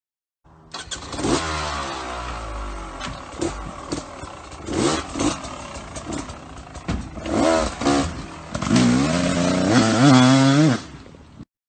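Dirt bike engine revved in repeated bursts, its pitch climbing and falling, with some clattering. The loudest, wavering revs come near the end.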